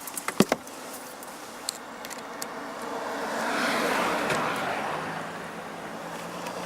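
A car passes close by, its tyre and engine noise swelling to a peak about four seconds in and then easing off, with a low steady engine hum setting in near the end. A few sharp clicks sound at the start.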